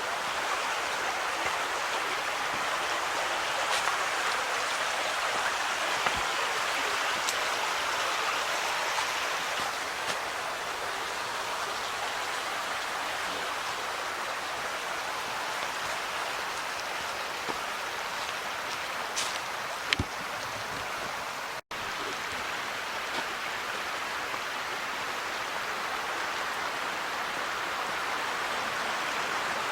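Creek water running steadily, a constant rushing hiss, with a few faint clicks and one short knock about two-thirds of the way through.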